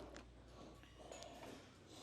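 Near silence: faint room tone with a low steady hum and a couple of light clicks.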